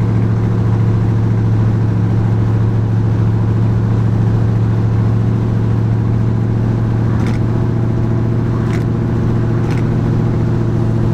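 Squarebody GMC truck's engine, fitted with an oversized camshaft and running on mechanical advance only with the vacuum advance disconnected, running steadily with an even, unchanging note. A few faint ticks come through in the second half.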